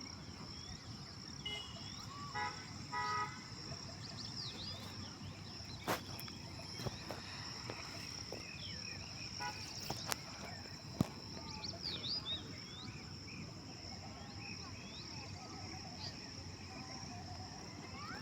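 Outdoor nature ambience: a steady high-pitched insect drone, typical of crickets, under many short bird chirps and calls. There are a few sharp clicks, the loudest near the middle.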